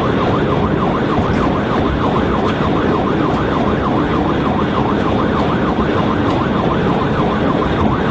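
Police cruiser siren in yelp mode, a rapid rising-and-falling wail several cycles a second, over steady engine and tyre noise at highway speed during a pursuit.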